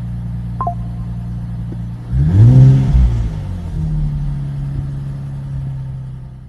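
Nissan Z NISMO's twin-turbo V6 idling through a NISMO titanium exhaust, blipped once about two seconds in: the revs rise and fall within about a second, then settle back to a steady idle.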